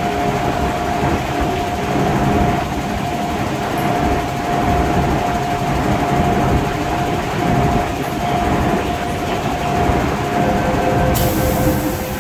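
MTR M-Train electric multiple unit running, heard from inside the car: a steady rumble of wheels on rail with a constant whine from the traction equipment. Near the end the whine drops to a lower pitch and a hiss starts.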